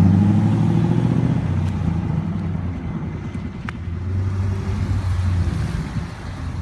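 Corvette LS V8 in a classic BMW 3 Series, running loud at first, then settling over a few seconds to a steady idle.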